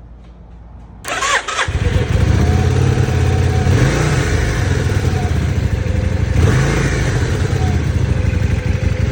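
1994 Yamaha Virago XV535's V-twin engine cranked on the electric starter about a second in. It catches within about half a second and runs steadily, with two brief throttle blips a few seconds apart.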